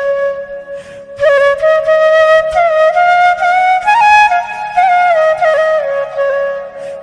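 Background music: a solo flute melody of held notes with slides between pitches, fading briefly about a second in before carrying on.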